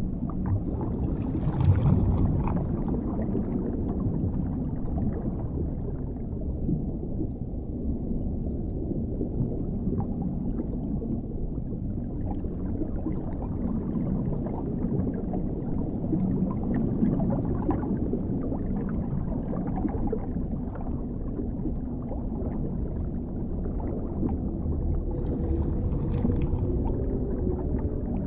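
Dark underwater ambience: a deep, steady rumbling, gurgling wash of water that swells and ebbs slowly, with a drawn-out low moaning tone coming in near the end.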